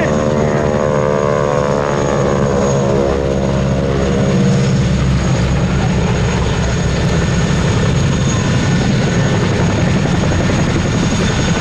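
Boeing Stearman biplanes with 450 hp radial engines flying past: a loud, steady propeller and engine drone whose pitch falls slowly over the first few seconds as they go by, then an even rumble.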